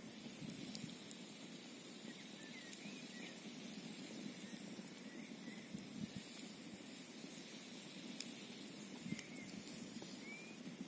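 Campfire crackling with occasional sharp pops over a steady hiss of wind and flowing stream water, with a few faint, short, high chirps.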